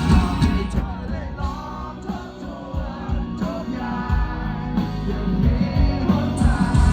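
Rock band music with singing; the band eases off about a second in and swells back to full loudness near the end.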